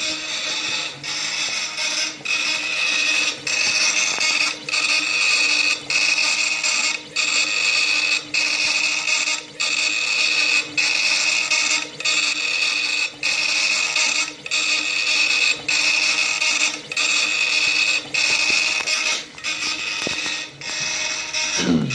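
Laser engraving machine's stepper motors whining as the head sweeps back and forth, with a brief break about every second and a quarter where it reverses direction, typical of raster engraving. A short falling sweep comes at the very end.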